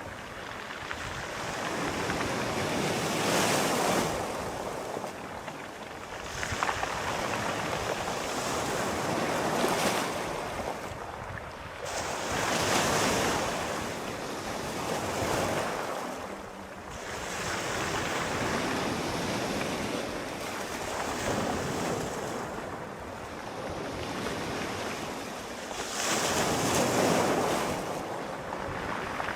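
Sea waves breaking and washing on a shore, the surf swelling and ebbing every few seconds, with a loud swell near the end.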